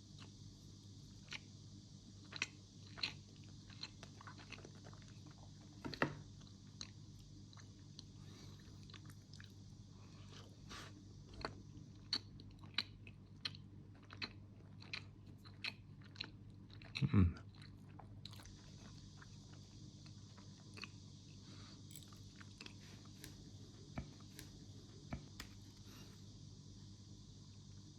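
A person chewing crunchy food close to the microphone, with scattered short crunches and clicks and one louder sound about two-thirds of the way through, over a faint steady low hum.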